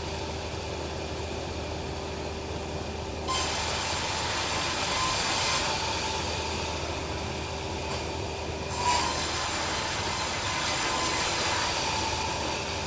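Band sawmill running with a steady hum, its blade cutting through a log: a rough hissing cut comes in about three seconds in, breaks off briefly near eight seconds, and resumes.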